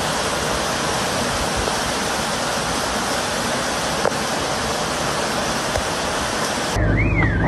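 Swollen floodwater rushing in a steady, even torrent. It cuts off near the end, where a warbling alarm begins.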